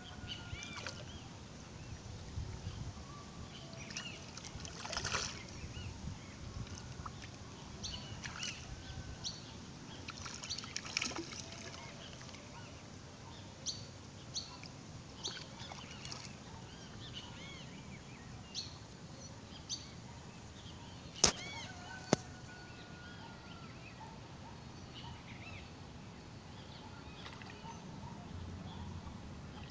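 Small birds chirping and calling on and off over quiet outdoor background, with two sharp clicks about a second apart roughly two-thirds of the way through.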